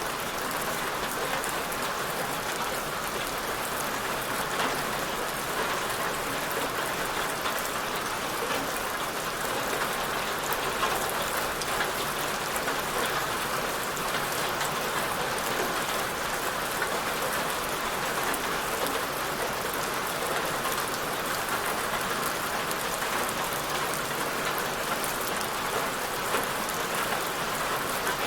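Steady rain falling on a surface, an even hiss of many drops with fine patters, without pause or change.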